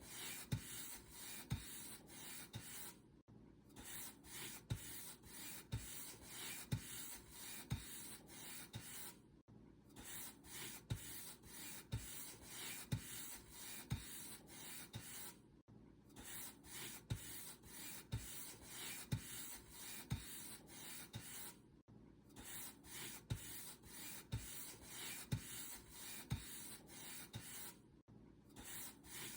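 Paint brush bristles stroked back and forth over a surface, a dry scratchy swishing of about two strokes a second. There is a brief pause about every six seconds, in a pattern that repeats like a loop.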